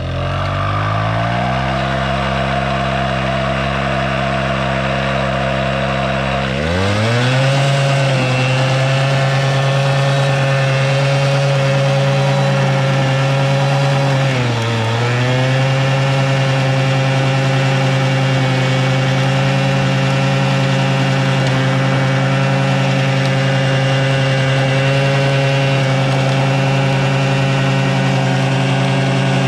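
Suzuki LT80 quad's small two-stroke single-cylinder engine held flat out at the rev limiter. Its pitch climbs in two steps over the first several seconds, dips briefly about halfway through, then holds steady and high.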